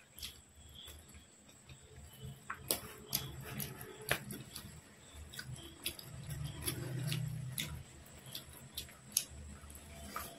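Close-miked eating sounds: chewing with wet mouth clicks and smacks, scattered sharp clicks throughout, as fried rice and curry are eaten by hand.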